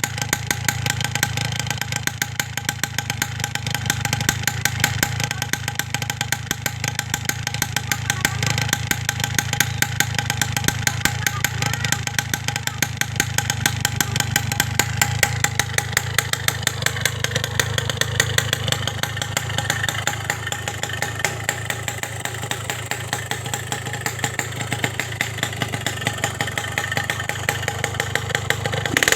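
Motorcycle engine idling steadily through an aftermarket expansion-chamber exhaust, a rapid, even run of exhaust pulses.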